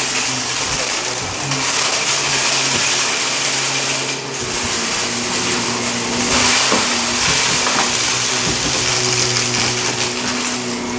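Shark vacuum cleaner running over carpet: a steady motor hum under loud rushing air that swells and dips several times, with a brief dip about four seconds in and a few faint ticks of debris being sucked up.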